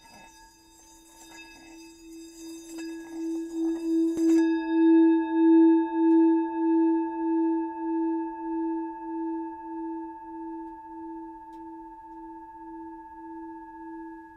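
A sustained bell-like ringing tone with a steady, even pulsing wobble. It swells over the first few seconds, with faint scratchy noise under it that stops with a click about four seconds in, then fades slowly.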